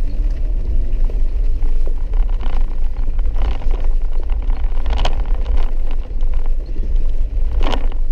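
Steady low in-cabin rumble of a vehicle driving over a rough, muddy dirt road, with a few sharp knocks and rattles along the way.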